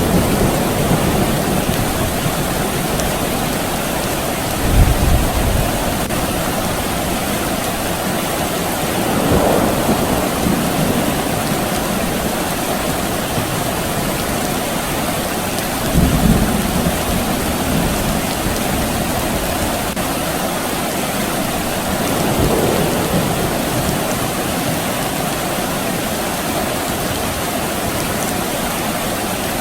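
Steady soft rain falling, with a few low rumbles of distant thunder swelling up and fading, the clearest about a third and half way through.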